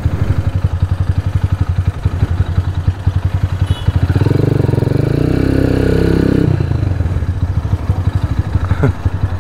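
Motorcycle engine running at low road speed, a fast low pulsing beat that grows louder for a couple of seconds in the middle.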